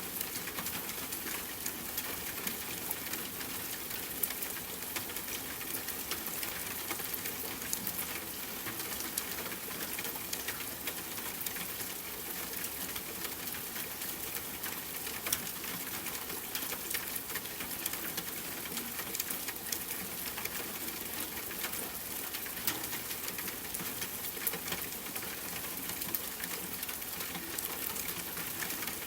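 Steady rain falling, mixed with the frequent small pops and crackles of a campfire burning.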